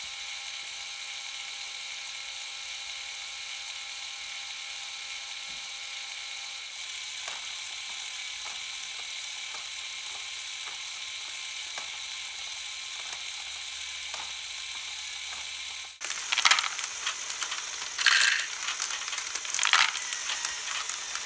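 A Lego XL motor drives a conveyor of Technic engine-block pieces, running with a steady whine and light clicks every second or so. About three quarters of the way through, this gives way abruptly to a louder, uneven rattling clatter in bursts.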